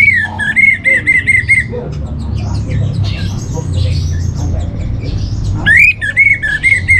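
Orange-headed thrush singing two loud whistled phrases, each a rising note followed by a quick run of about six repeated notes. The first comes at the start and the second about six seconds in, over a low background rumble.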